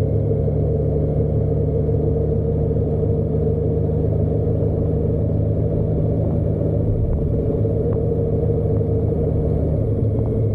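Motorcycle engine running steadily at an even speed, with a low, constant rumble and no change in pitch.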